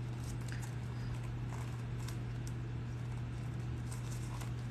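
Faint, scattered light taps and rustles of stiff leather being handled and folded into creases, over a steady low hum.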